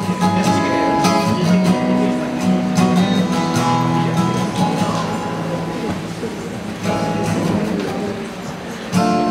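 Acoustic guitar strummed in chords, a song intro played live with no singing yet.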